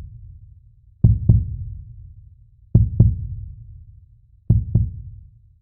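Heartbeat sound effect: slow, deep double thumps, three pairs about one and three-quarter seconds apart, each pair fading into a low boom.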